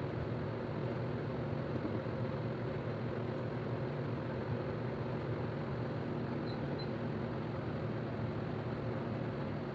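A steady, unchanging mechanical drone with a hiss, holding level throughout.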